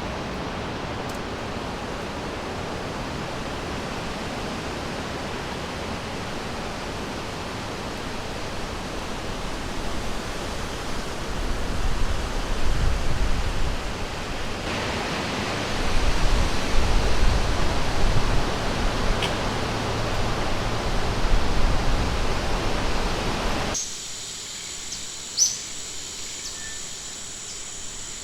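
River or stream water rushing in a steady hiss, swelling with a low rumble in the middle. Near the end it cuts abruptly to a quieter forest with a steady high insect drone and a couple of short bird chirps.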